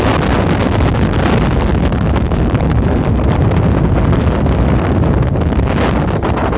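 Strong wind buffeting the microphone: a loud, continuous low rumble that wavers constantly.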